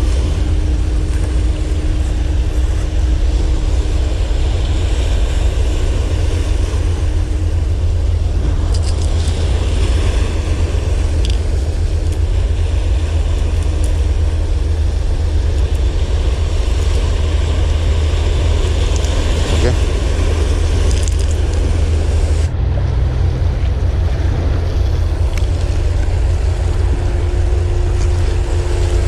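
Wind buffeting the microphone in a loud, steady low rumble over the wash of the sea. The sound changes abruptly about three-quarters of the way through.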